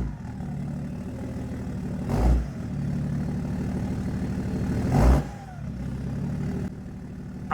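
BMW 535d E60's twin-turbo diesel straight-six idling, blipped sharply about every two and a half seconds. A brief falling whistle follows the last blip.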